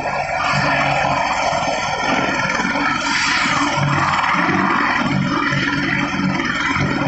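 Apache helicopter running loudly, its turbine engines and rotor making a dense, steady noise with fixed high whining tones over an uneven low rumble.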